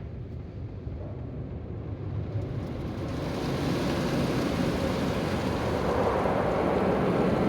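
Automatic car wash spraying and scrubbing the car, heard from inside the cabin: a steady rush of water with a low rumble, growing louder about two and a half seconds in.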